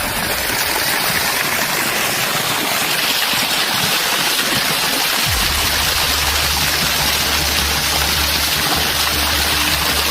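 Water gushing steadily out of a tree trunk and splashing down, a constant rushing noise. A low steady hum joins about halfway through.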